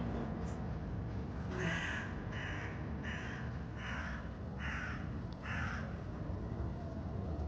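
A bird calling: a run of about six short, rasping calls over roughly four seconds, over a steady low street rumble.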